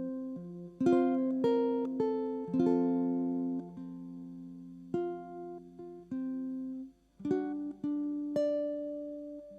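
Solo ukulele fingerpicked in a dropped-fourth tuning, with its low G string lowered to F. Plucked notes and chords ring out and fade, with a brief pause about seven seconds in before the playing picks up again.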